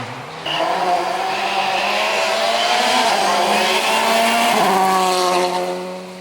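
Turbocharged four-cylinder rally car going past at speed on full throttle. Its engine note holds steady, drops in pitch about two-thirds of the way through as it goes by, and fades near the end.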